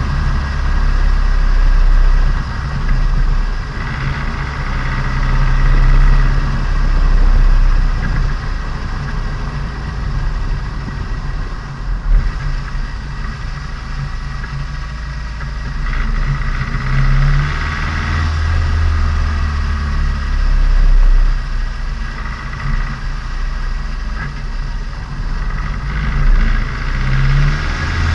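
Turbocharged Nissan Micra engine and exhaust running under way during engine break-in, the engine note rising and easing off several times as the car drives.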